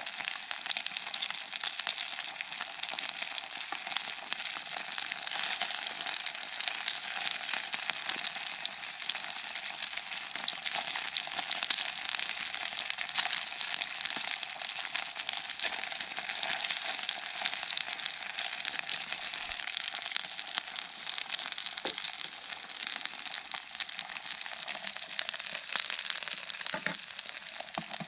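Seasoned chicken pieces frying in a small camping frying pan: a steady, dense sizzle full of fine crackles.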